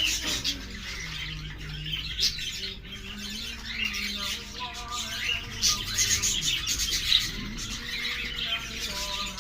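Budgerigars chattering: a continuous flurry of short chirps, squawks and warbles.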